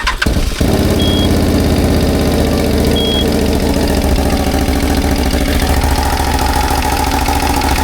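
CFMOTO CForce 1000 ATV's 2V91Y V-twin engine cranking and catching right at the start, then idling steadily. A knock is still there after the valve clearances were adjusted in tolerance, so the adjustment has not cured it.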